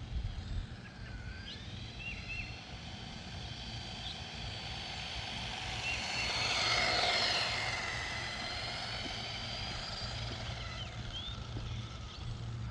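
Electric motor and drivetrain of a 1/18-scale RC monster truck whining as it drives. The pitch rises and falls with throttle, and it gets loudest about seven seconds in, as it passes close.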